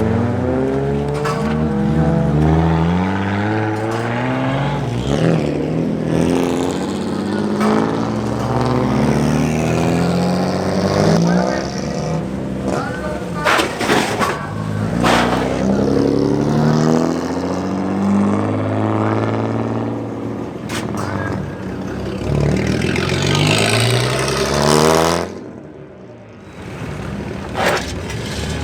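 Classic Japanese cars' engines revving loudly, the pitch climbing and falling again and again, with a short lull about 25 seconds in.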